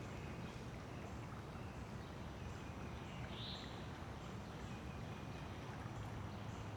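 Steady, faint rush of a rain-swollen creek flowing, with a brief high chirp about halfway through.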